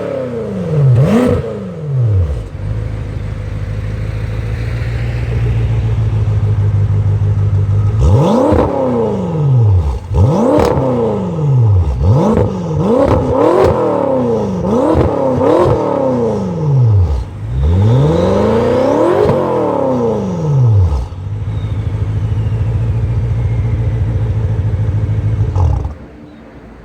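BMW F10 M5's twin-turbo V8 revved through an Armytrix valved exhaust: a couple of throttle blips, a steady idle, then a quick run of about nine blips, each rising and falling in pitch, before it settles back to idle.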